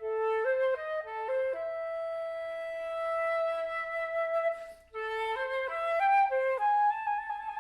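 Flute playing a single melodic line: a quick run of stepped notes, then one long held note, a brief break about five seconds in, and another rising figure of stepped notes ending on a held higher note.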